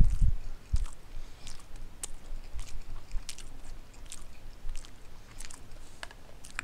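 Close-up mouth sounds of a person chewing a mouthful of instant chicken ramen noodles: faint wet smacks and clicks scattered through, after a louder low thump right at the start.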